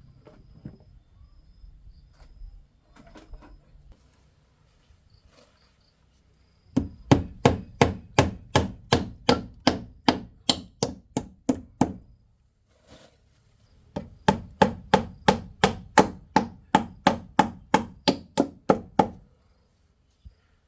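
Rapid, even chopping with a blade on a board, about four strokes a second, in two runs of about five seconds each with a short pause between.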